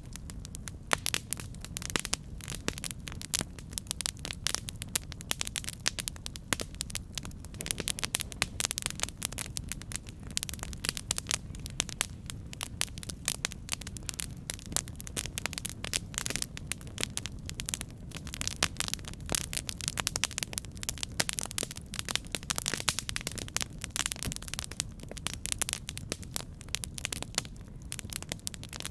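Campfire burning with dense, irregular crackling and popping over a steady low rumble of the flames.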